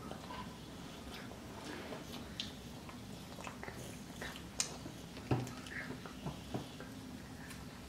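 Quiet mouth sounds of children chewing chicken nuggets: scattered soft smacks and small clicks, with two sharper clicks a little past halfway, over a faint steady low hum.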